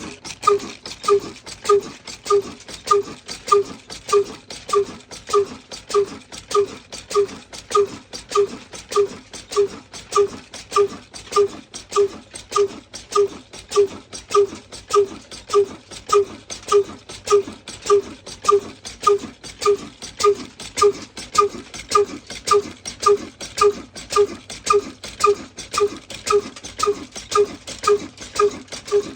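Diesel engine running slowly, with even, regular exhaust beats about two a second.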